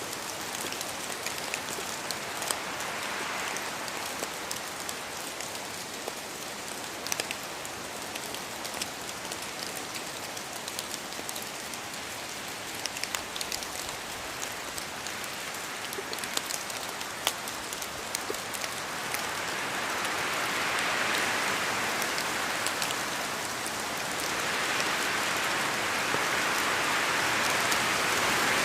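Steady rain falling, with sharp individual drops ticking on a surface throughout. The downpour swells heavier about two-thirds of the way in.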